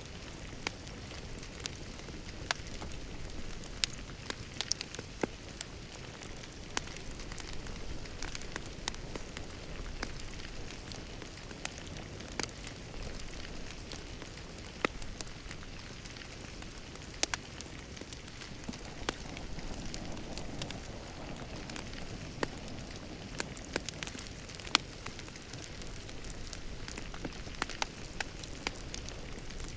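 Wood fire burning in a fireplace: a steady soft hiss and low rumble, with sharp, irregular crackles and pops several times a second.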